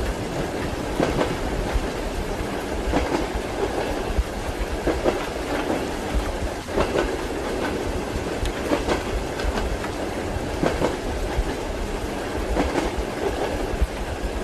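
Train wheels clattering over rail joints, clickety-clack, as heard from inside a moving passenger carriage: a pair of knocks about every two seconds over a steady low rumble.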